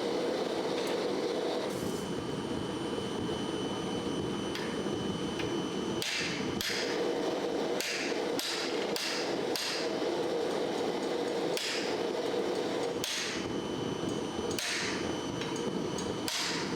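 Blacksmith's hammer striking steel on an anvil: about ten irregular blows, beginning about a third of the way in, each with a brief ring, over a steady rushing noise.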